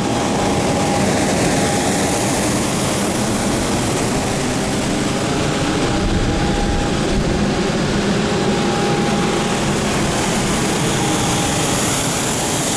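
Steady jet-aircraft turbine noise: a constant roar with a thin high whine above it and a faint tone that comes and goes.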